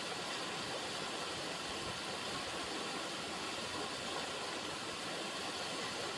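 River water running: a steady, even rush with no breaks.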